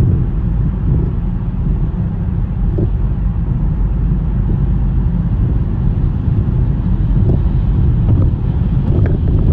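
Car driving through a snowstorm: a steady low rumble of tyre and wind noise, with a few soft bumps.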